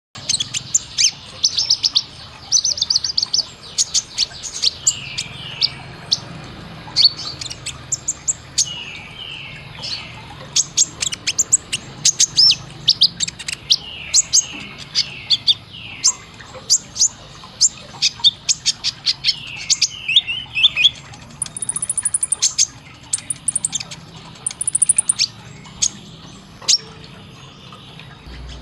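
Kolibri ninja (olive-backed sunbird) singing a rapid, sharp song of high chirps, broken by short runs of falling trilled notes, with a few thin high whistles near the end. This is the fast 'tembakan' song used as a masteran recording to tutor captive songbirds.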